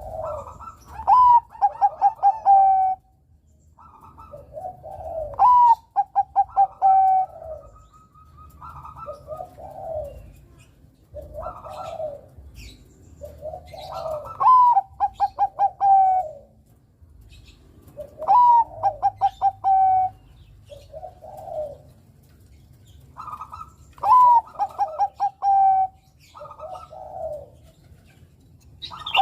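Zebra dove (perkutut, Bangkok song type) cooing: repeated phrases every few seconds, each a rising note followed by a quick run of about six clipped notes, with softer, lower coos in between.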